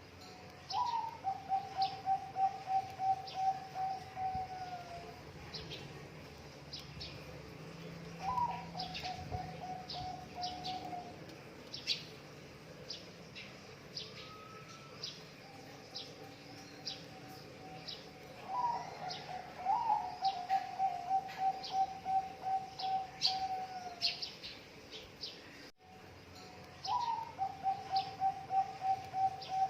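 Zebra dove (perkutut) singing: several phrases, each a short higher opening note followed by a quick run of even coos that trails off at the end. Small birds chirp faintly and higher in the background.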